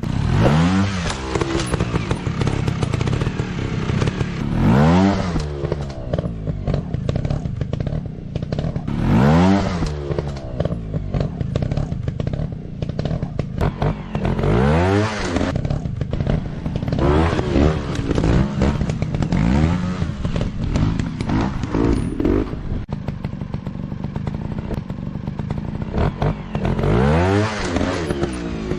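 Dirt-bike engine being ridden, revving up and easing off again and again, with a rise and fall in pitch every few seconds.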